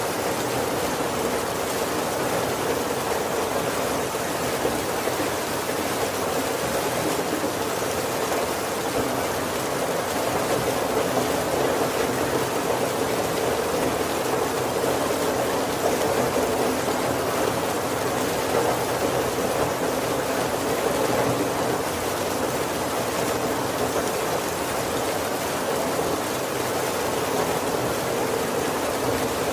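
Heavy rain falling steadily on a roof, a dense, even patter with no breaks and no thunder.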